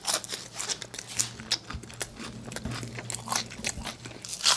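Close-miked crunching and chewing of battered fried shrimp: a run of quick, crisp crunches as the coating breaks between the teeth.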